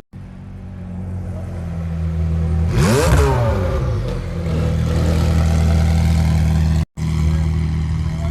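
A vehicle engine running steadily at idle, blipped once to a quick rev that rises and falls about three seconds in.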